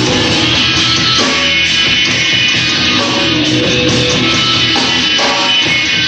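A rock band playing live: distorted electric guitars over a drum kit, an instrumental passage without singing.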